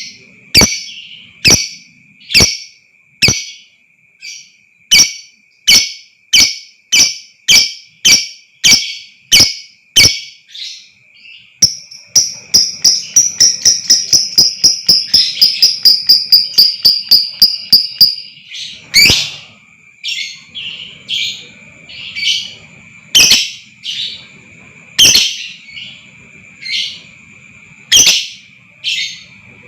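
Lovebird calling: sharp chirps about two a second, then midway a rapid run of calls lasting about six seconds, the long 'ngekek' trill of an excited bird, then spaced chirps again. A steady high tone runs underneath.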